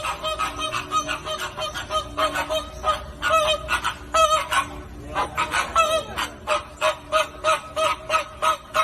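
Flamingos honking: a steady run of short, goose-like calls, about three a second, overlapping one another.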